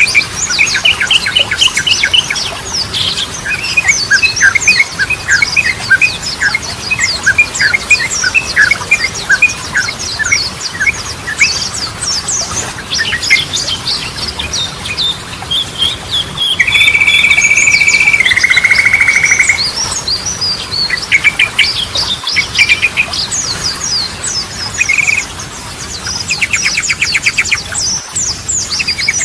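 Yellow-vented bulbul (trucukan) singing in a busy run of quick chattering chirps. Just past the middle it holds one long steady whistle, then a buzzier note, and near the end a fast trill.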